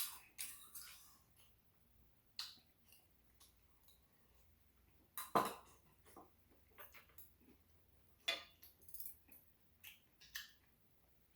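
A utensil clinking and tapping against a bowl now and then during eating, in short separate sounds with the loudest about five seconds in.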